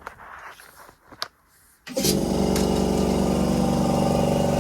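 A few light clicks and knocks, then, about two seconds in, an electric motor starts abruptly and runs steadily with an even, pitched hum.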